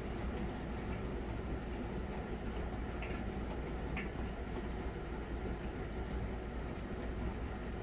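Miele Novotronic W921 front-loading washing machine running mid-cycle on its easy-care 40 °C programme, a steady low running sound of the motor and turning drum. Two faint clicks come about three and four seconds in.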